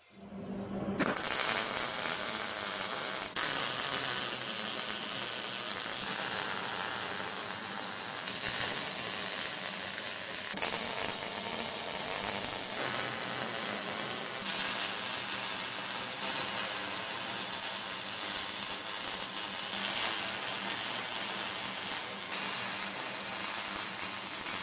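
Welding on square steel tubing: a steady, dense crackle that shifts in level abruptly several times.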